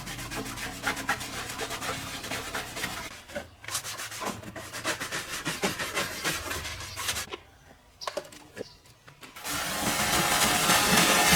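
Scrubbing and rubbing on a surface: many short, irregular scraping strokes and small clicks, dropping to a few faint clicks about eight seconds in, before a louder steady noise starts near the end.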